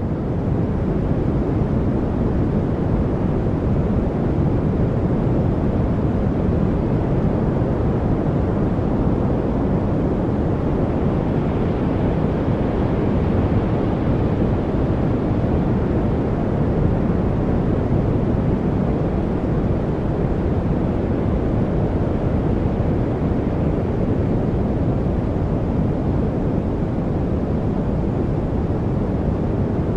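Steady, deep-toned masking noise, an even rushing hiss weighted toward the low end, like brown noise, fading up over the first second and then holding level with no separate events.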